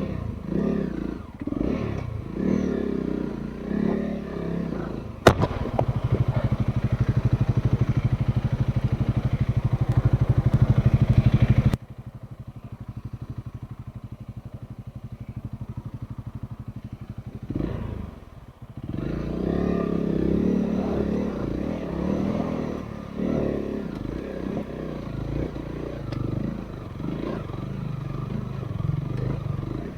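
Off-road motorcycle engine running over rough ground, with knocks and clatter. It goes unevenly at first, holds a steady louder note for several seconds, then drops suddenly to a low chugging. After a short lull it picks up again unevenly.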